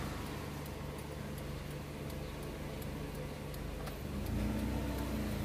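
A Honda Civic's four-cylinder VTEC engine idling steadily, heard from inside the cabin, with a faint light ticking. About four seconds in the engine sound grows louder with more low hum, as the air conditioning comes on and the compressor loads the idle.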